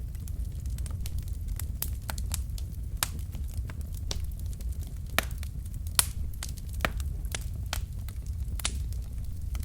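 Wood fire in a fireplace crackling, with irregular sharp pops from the burning logs over a steady low rumble of the flames. The loudest pops come about five and six seconds in.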